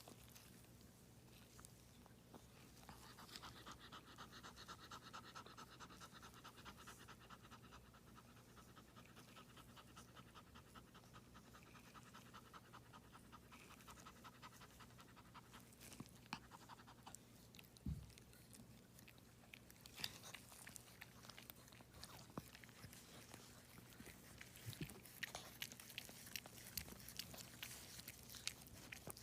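Female Shih Tzu in labour panting quickly and rhythmically, the heavy panting typical of a whelping dog. In the second half the panting gives way to scattered soft clicks.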